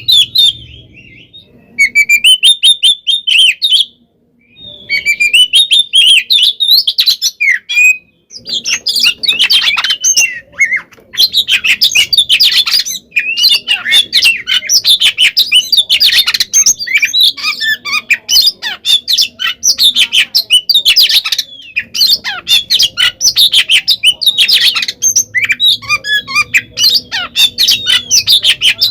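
Oriental magpie-robin (kacer) singing a loud, fast, varied run of notes and chirps in full fighting-mode song. It breaks off briefly a few times in the first eight seconds, then sings almost without pause.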